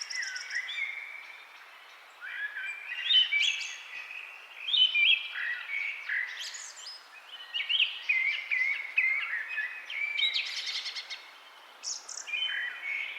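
Songbirds singing: bursts of varied, overlapping chirps, slurred notes and fast trills, separated by short pauses.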